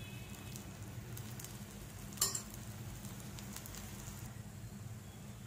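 Ragi paniyaram batter and oil sizzling faintly in a non-stick paniyaram pan, with scattered small pops and one sharper click a little over two seconds in. A low steady hum runs underneath.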